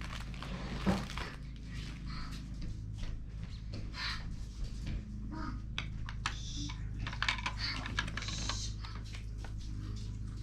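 Small plastic clicks and taps of hands handling a car heater control panel as twist-lock bulb sockets are turned into place, over a low steady hum.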